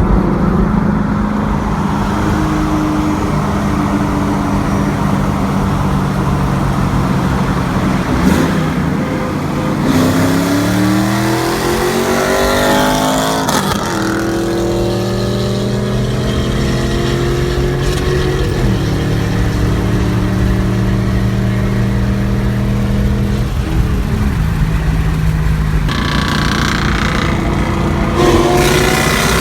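V8 car exhaust idling steadily and revved up several times, with the longest climb about ten to thirteen seconds in.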